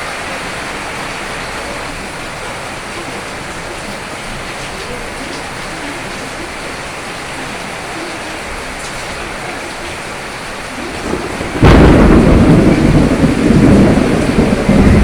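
Steady rain falling, then about three-quarters of the way through a sudden loud crack of thunder that rolls on as a heavy rumble.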